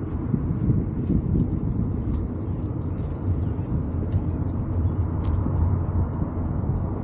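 Wind noise on the microphone and road noise from a moving bicycle, a steady low noise with a few scattered light clicks.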